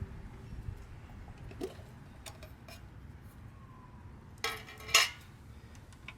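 Light metal clicks and scrapes, then two louder metal clatters about half a second apart near the end, the second the loudest, as the carburetor is taken out of its can of Chem-Dip parts cleaner.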